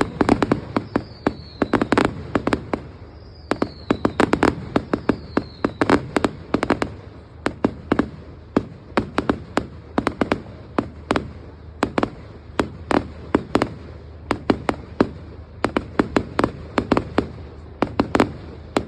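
Fireworks display: a rapid, unbroken string of sharp bangs and pops, several a second, with a few short falling whistles in the first six seconds.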